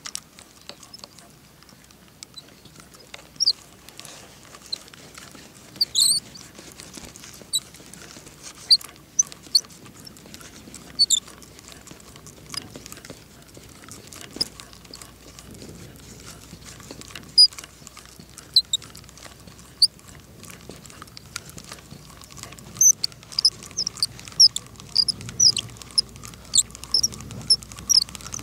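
Small birds chirping in short, high, scattered calls, which come much more often near the end.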